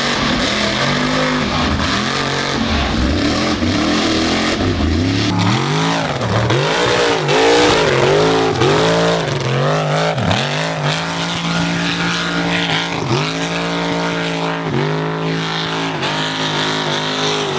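Mud truck engine revving hard, its pitch rising and falling again and again, then held at high revs with a few brief dips near the end.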